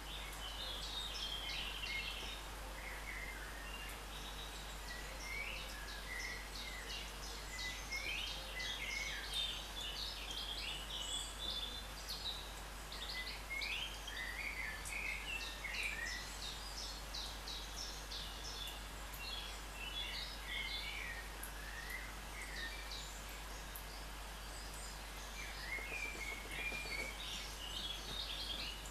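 A small bird chirping and twittering in quick runs of short high calls, broken by a few brief lulls, over a steady low hum.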